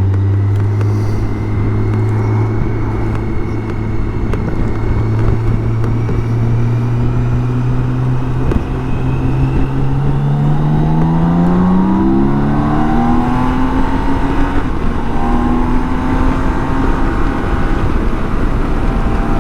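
BMW K1600 GTL's 1.6-litre inline-six engine running under way, then accelerating hard from about halfway through. Its revs rise steadily with a drop in pitch at a couple of gear changes, heard over wind and road noise.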